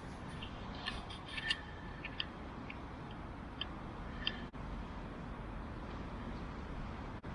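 A scatter of light clicks and small clinks, bunched in the first half, over a steady low rumble.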